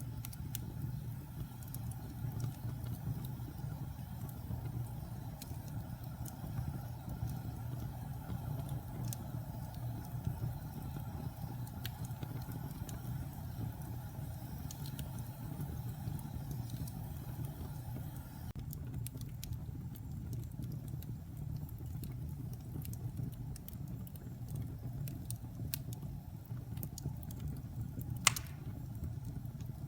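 Wood fire burning in a fireplace: a steady low rumble with scattered crackles from the burning logs and one sharp pop near the end.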